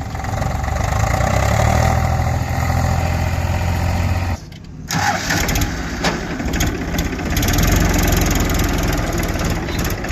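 Heavy diesel machine engine running steadily, with a brief drop in sound about four and a half seconds in before it carries on.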